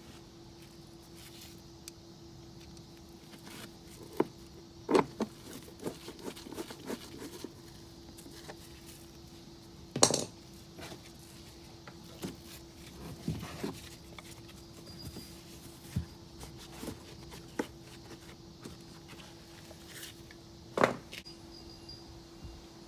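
Scattered clicks, knocks and light metallic clatter of tools and parts being handled during battery work on a scooter, with a faint steady hum underneath.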